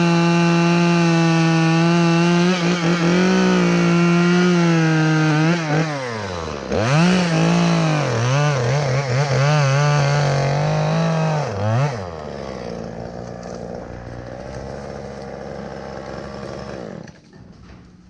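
Chainsaw running at high revs while cutting through a dead, rotten ash limb, the revs dipping briefly about six seconds in and climbing again. About twelve seconds in it falls back to a quieter idle, and it stops near the end.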